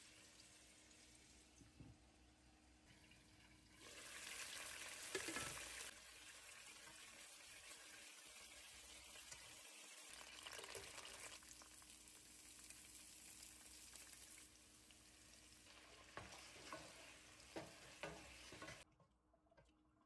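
Skin-on chicken thighs sizzling as they sear in oil in a nonstick pan, louder for a couple of seconds about four seconds in. A few clicks of tongs come near the end, then the sizzle drops away.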